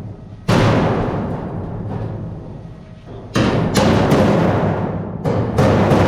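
Thin steel sheet of a boat hull struck hard several times at uneven intervals, each blow booming and ringing out slowly.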